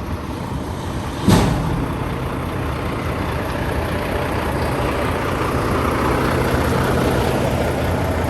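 Truck engine idling steadily, with a single sharp knock about a second in.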